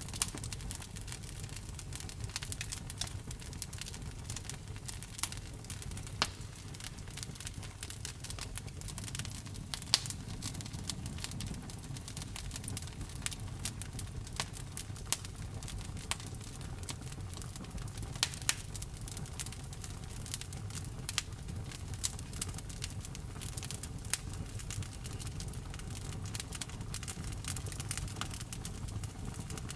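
Campfire wood burning, with irregular sharp crackles and pops over a low steady rumble of the flames; a few pops stand out louder.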